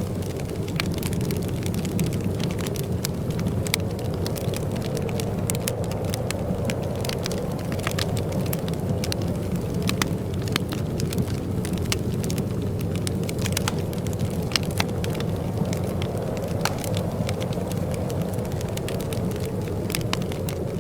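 Wood fire crackling in a fireplace: frequent short pops and snaps over a steady low rumble.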